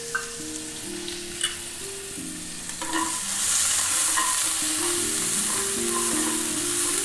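Grated ginger and cumin seeds sizzling in hot oil in a small nonstick pan while a spoon stirs them. The sizzle grows louder about three seconds in, once the stirring gets going.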